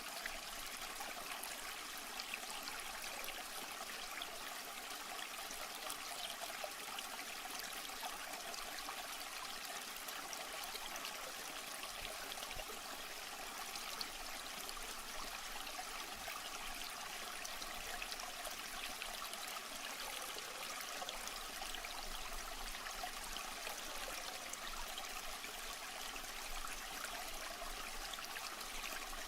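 Water trickling and splashing steadily, an even running-water sound with no breaks.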